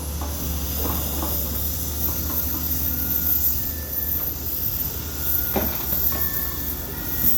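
Truck engine running steadily, a constant low drone with hissing over it.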